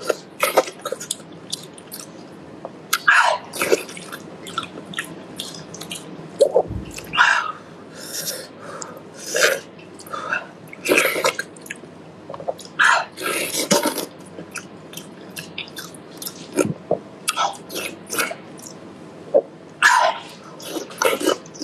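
A person chewing braised pig's head meat with open-mouthed smacking, in irregular short bursts of mouth noise.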